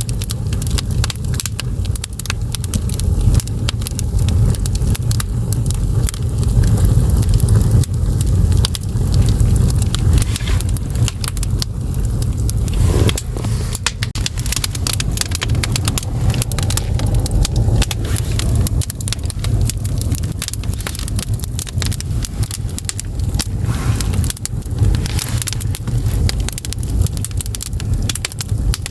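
Firewood burning in an agungi, a traditional Korean ondol firebox, crackling and popping continually over a steady low rumble.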